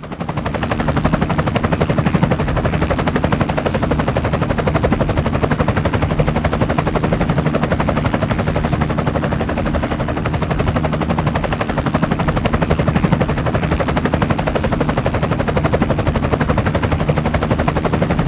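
Helicopter sound effect: a steady, rapid chopping of rotor blades, starting abruptly and holding an even rhythm throughout.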